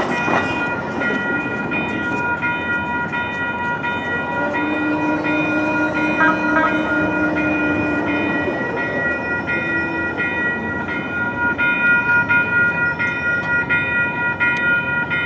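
Railroad crossing warning bell ringing steadily, about two to three rings a second, as the signals activate for an approaching trolley. A lower steady tone sounds for a few seconds midway.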